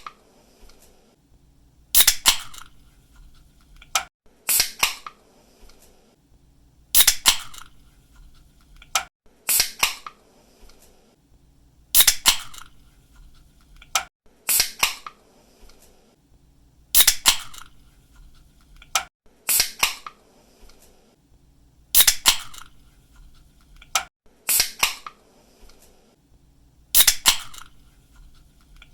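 Aluminium soda or energy-drink can being opened again and again: each pull-tab opening is a sharp crack with a short hiss, repeated about every two and a half seconds.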